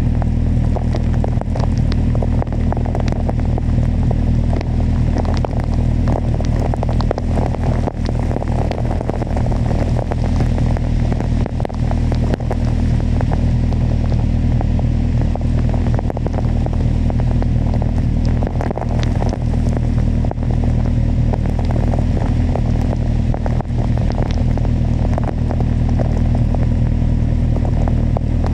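Kawasaki motorcycle engine running at a steady cruise, with wind and road noise and a scatter of small raindrop ticks throughout.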